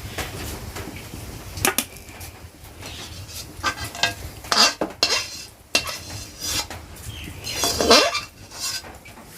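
Metal cooking utensils clinking and scraping against a cooking pot, a handful of separate knocks and scrapes spread over several seconds, the loudest about eight seconds in.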